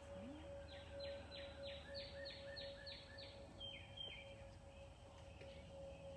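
A songbird sings a run of about nine quick down-slurred whistled notes, then two lower ones. A faint steady tone holds underneath.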